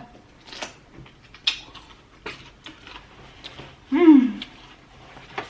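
Scattered small clicks and smacks of eating, with one short vocal sound falling in pitch about four seconds in.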